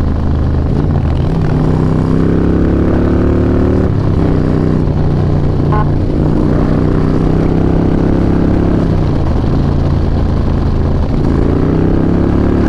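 Harley-Davidson touring motorcycle's V-twin engine pulling hard under throttle at road speed, its pitch climbing, dropping sharply about four seconds in, climbing again, dipping around nine seconds and rising once more, over steady wind rush.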